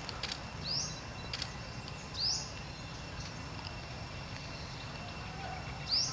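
Outdoor ambience with a bird giving three short, rising chirps spaced a few seconds apart, over a steady background hiss and a faint, steady insect drone. Two faint clicks come in the first second and a half.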